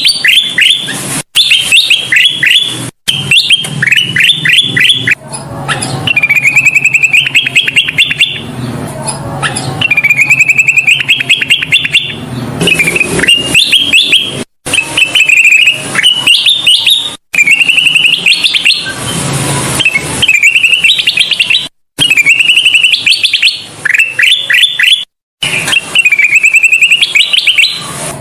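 Kutilang emas bulbul singing: loud, repeated phrases of quick bright chirps, one after another, with several abrupt silent gaps between phrases where the recording is spliced.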